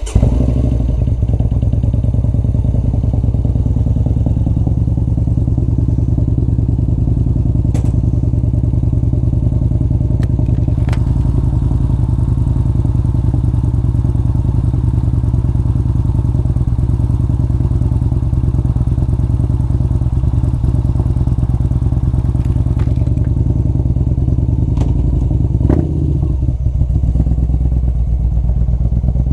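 Motorcycle engine running steadily, its note holding even throughout, with a few brief sharp clicks along the way.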